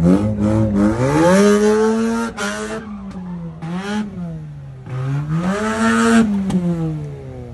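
Mazda RX-8's two-rotor Wankel rotary engine revving hard during donuts, its pitch climbing, holding and dropping several times as the throttle is worked. Twice, when the revs are highest, the spinning rear tyres add a loud screeching hiss.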